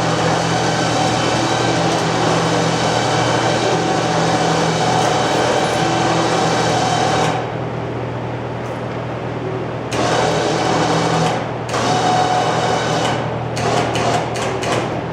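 Home-built elevator's electric drive running with a steady hum, cutting out about halfway through, starting again a few seconds later, then stopping and starting in short spurts near the end.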